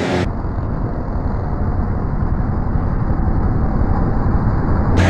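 A car's steady, muffled rumble with no clear engine note, starting and stopping abruptly.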